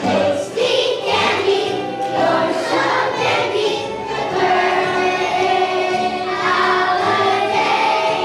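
Young children's choir singing a holiday song over instrumental accompaniment.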